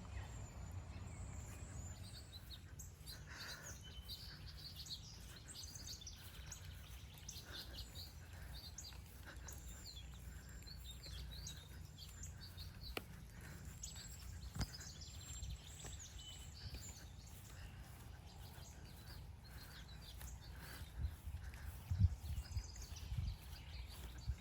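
Birds chirping and calling intermittently over a low, steady outdoor rumble, with a few soft thumps near the end.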